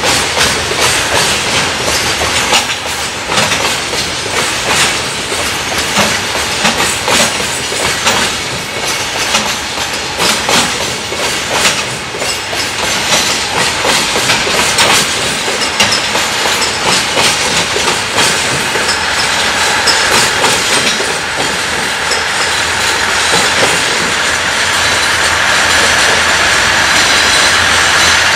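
Freight train of Koki 104 container flatcars clattering past, its wheels clacking rhythmically over the rail joints. In the last third the clacks thin out into a steadier rumble with a faint high whine as the train draws away.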